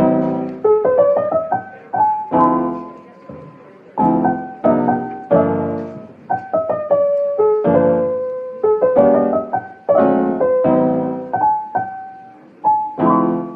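Piano music: a slow piece of struck chords and single melody notes, each dying away before the next.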